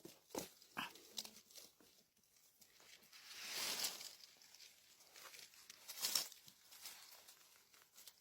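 Rustling and crackling of leaf litter and twigs while mushrooms are picked. There are a few short snaps in the first second or so, a swelling rustle around the middle and another sharp rustle a couple of seconds later.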